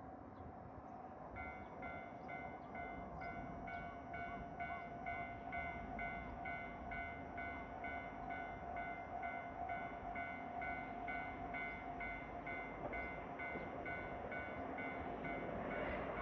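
Japanese level-crossing warning bell ringing in an even, rapid ding-ding, about two strikes a second, starting about a second in as trains approach. A steady hum lies underneath.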